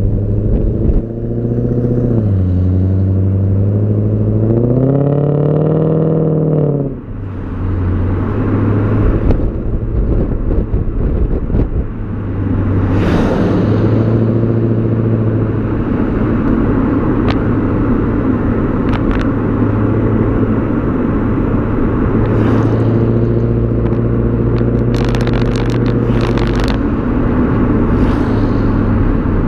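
BMW E39 540i's V8 exhaust while driving: the note climbs in pitch under acceleration, drops away abruptly about seven seconds in, turns rough for a few seconds, then settles into a steady drone at cruise. A few short sharp clicks come near the end.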